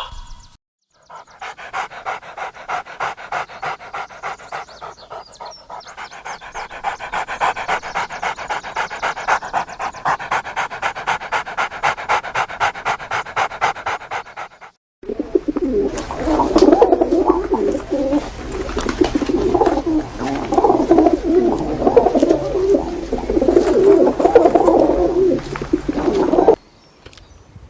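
Animal sounds in two clips: first a rapid, even series of breaths or calls, about three a second, for some thirteen seconds; then, after a brief break, a rougher, lower and irregular run of animal sounds that cuts off suddenly.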